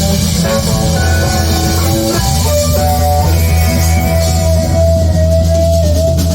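Live band music, instrumental: a long wavering lead note held over steady bass.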